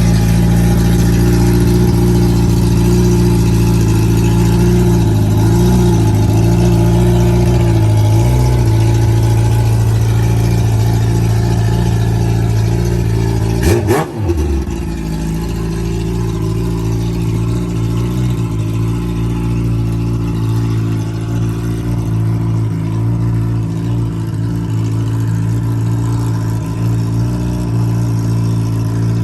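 Kawasaki ZX-10R inline-four sport-bike engine running at a steady, mostly idle-like speed, with slight rises in revs in the first half. There is a short sudden break about halfway through.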